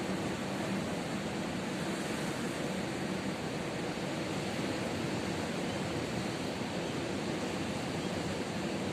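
Ocean surf: a steady wash of breaking waves with no lulls.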